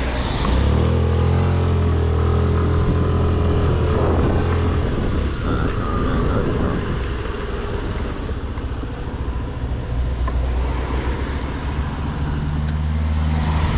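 Scooter engine running at a steady pitch under way, with a constant rush of wind and road noise across the microphone.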